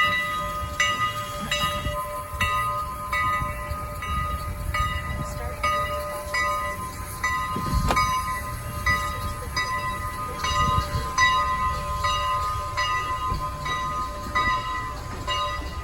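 Steam locomotive's bell ringing steadily, struck about every three-quarters of a second with its tone ringing on between strokes, over the low rumble of the train.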